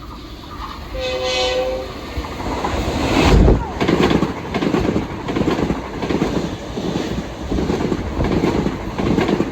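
Long Island Rail Road train sounding a short horn blast about a second in, then passing close by: a sudden rush of noise followed by a steady, evenly repeating clickety-clack of wheels over rail joints, slightly faster than one beat a second.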